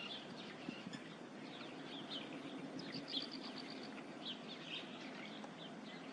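Birds giving short, high chirps at irregular intervals, with a quick run of ticking notes about three seconds in, over a steady low background hiss.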